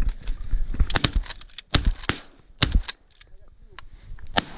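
Several shotguns firing in a ragged volley: about eight shots spread unevenly over four seconds, the loudest near the middle and a last one near the end.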